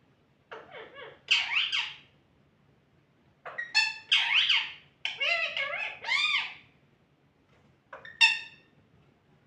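Pet talking parrot calling in four short bouts of chattering, pitched calls that slide up and down, the last one brief.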